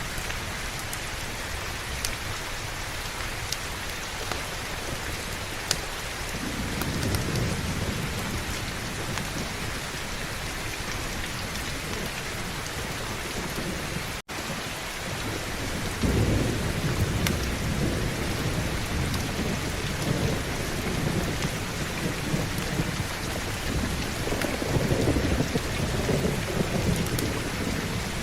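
Steady heavy rain with rolling thunder. A low rumble builds about six seconds in, and a longer one runs from about sixteen seconds to near the end. A few sharp clicks sound over the rain, and the sound cuts out for an instant about halfway through.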